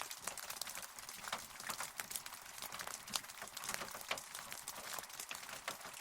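Steady rain falling, with many individual drops striking a surface as close, sharp ticks over an even hiss.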